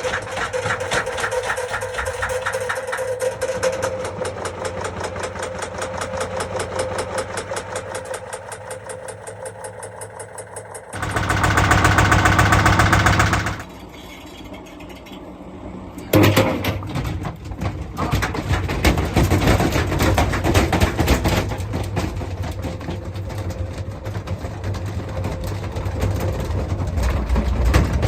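Washing machine running fast with a rapid, regular knocking, as if something heavy is loose in the spinning drum. About eleven seconds in, a loud rushing noise takes over for a couple of seconds. The knocking drops away briefly, then starts again and runs on.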